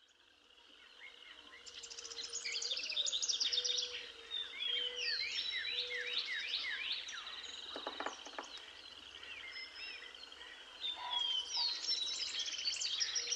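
Several songbirds singing and chirping together in quick, overlapping phrases, fading in over the first two to three seconds.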